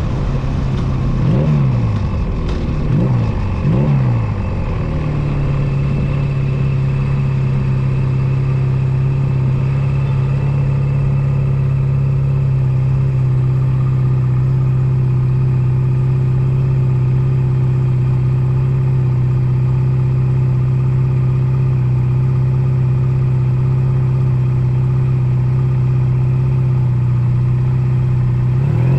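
Honda Nighthawk 250's air-cooled parallel-twin engine under way. For the first few seconds its pitch swings up and down several times. It then settles into a long, steady note, as at constant cruising speed, and starts to rise and fall again near the end.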